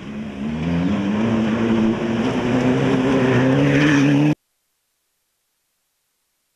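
Volkswagen Polo rally car's engine accelerating hard, its pitch climbing steadily, with a brief dip about two seconds in; the sound cuts off suddenly a little over four seconds in.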